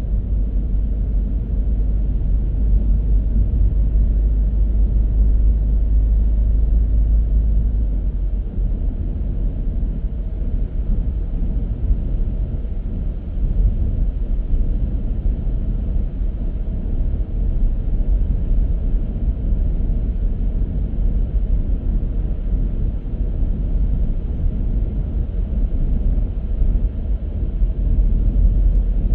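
Car driving at steady speed: a continuous low rumble of road and engine noise with no distinct events.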